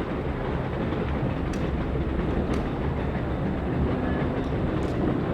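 Passenger train hauled by Reading & Northern steam locomotive 425, rolling along the track: a steady heavy rumble with a few sharp clicks scattered through it.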